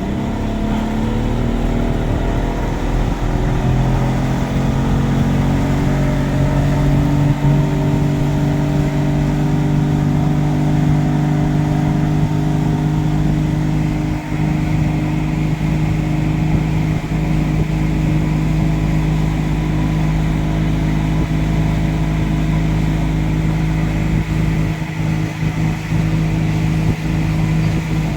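Boat engine speeding up over the first few seconds, then running steadily at a constant high speed while underway.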